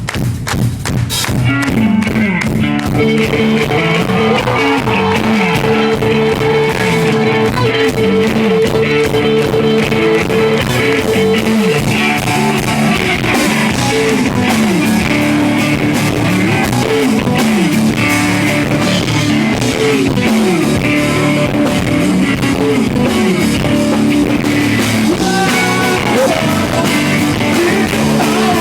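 Loud live rock band playing an instrumental passage with electric guitars and a drum kit, picked up by a handheld recorder in the room. The full band comes in about two seconds in and keeps going steadily.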